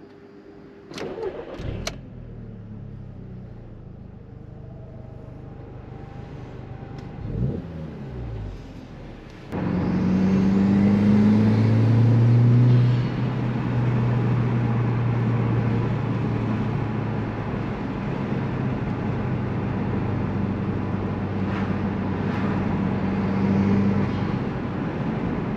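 Audi TT Mk1's turbocharged 1.8T four-cylinder engine heard from inside the cabin, running quietly at first. About ten seconds in it suddenly gets louder as the car accelerates hard under boost, the engine note climbing, then it eases off into a steady cruise.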